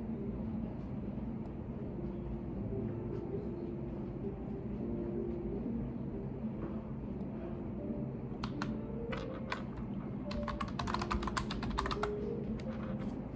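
Typing on a computer keyboard: scattered keystrokes from about two-thirds of the way in, then a quick, dense run of keystrokes for a second or two, and a few more near the end, over a steady low background hum.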